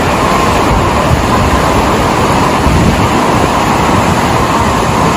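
Loud, steady rushing of fast-flowing floodwater, an even noise with no breaks.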